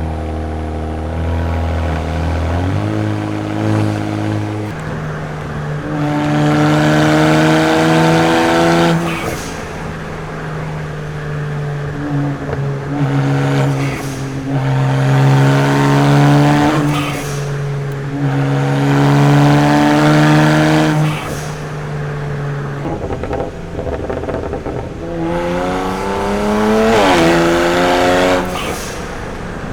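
BMW 335i's turbocharged straight-six, breathing through a muffler-delete exhaust with catless downpipes, revving up several times. Each time the pitch climbs for a few seconds and then drops back.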